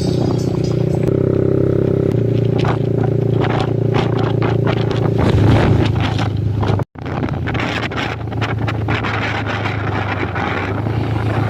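Motorbike engine running steadily, with scattered clicks and rattles over it and a brief drop to silence about seven seconds in.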